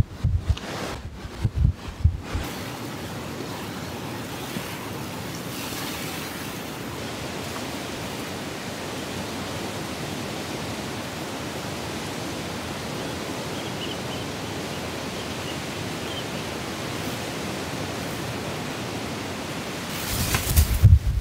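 Heavy rain falling steadily as an even hiss, during a storm. Gusts of wind buffet the microphone with low rumbles for the first couple of seconds and again near the end.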